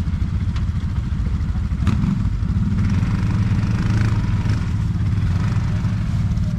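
ATV engine running steadily at low revs, with a couple of short clicks about half a second and two seconds in.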